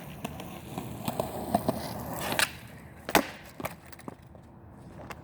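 Skateboard wheels rolling on pavement, growing louder, then a sharp crack and a loud clack of the board striking the ground about three seconds in, followed by a few smaller knocks.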